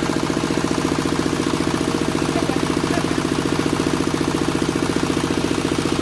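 Diesel engine of a QTJ4-40 hydraulic block-making machine running steadily, with an even, fast pulsing beat.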